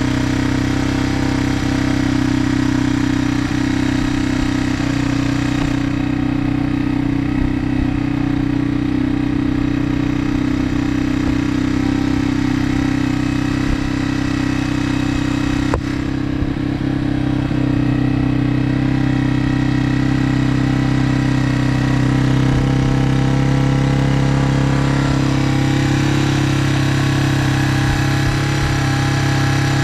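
1999 Yamaha TT-R225's air-cooled single-cylinder four-stroke engine idling steadily as it warms up from a cold start. The idle pitch shifts slightly near the end.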